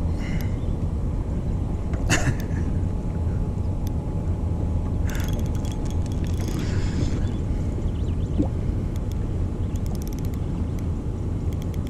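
Boat's outboard motor running steadily at low speed, a continuous low rumble, with a brief sharp knock about two seconds in and some light clatter a few seconds later.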